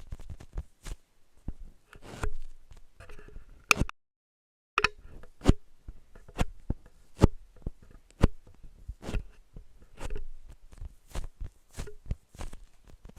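Irregular taps and clicks, several a second, some with a short hollow ring, broken by a moment of total silence about four seconds in.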